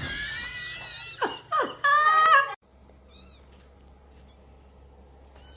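A cat meowing: several pitched calls, two of them short and falling, and a last longer meow that cuts off about two and a half seconds in. Two faint high chirps follow in the quiet.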